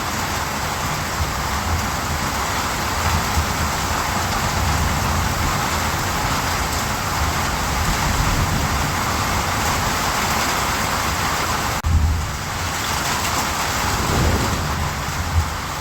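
Steady heavy rain falling, a dense even hiss with a low irregular rumble underneath; the sound briefly dips about twelve seconds in and carries straight on.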